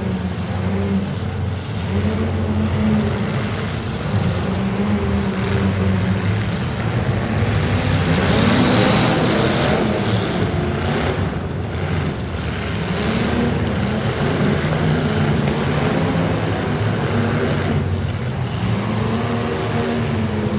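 Demolition derby car engines revving, their pitch rising and falling again and again, with a louder, noisier stretch about eight to ten seconds in.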